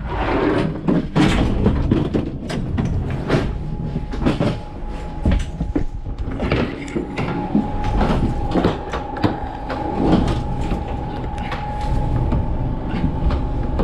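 Inside a moving passenger train carriage: a steady rumble with clatter from the running gear, and repeated knocks and rattles as a stuck carriage door is worked by hand. From about six seconds in, a thin steady high whine runs under it.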